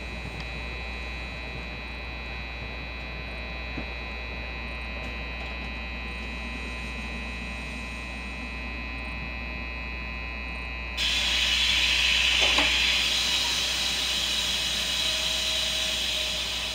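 Electric commuter train standing at the platform, its onboard equipment humming steadily with several fixed whining tones. About eleven seconds in, a loud hiss of air starts suddenly and keeps on for several seconds, easing a little near the end.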